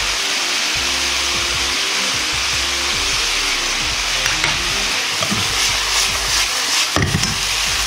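Pork and bean sprouts sizzling steadily in a hot wok, with a few clicks and scrapes of chopsticks against the pan in the second half as the green onion is stirred in. Soft background music plays underneath.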